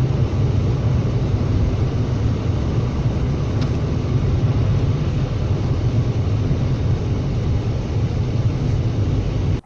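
Steady road and engine rumble of a moving vehicle, heavy in the low end, picked up by a dashcam microphone; it cuts off abruptly at the end.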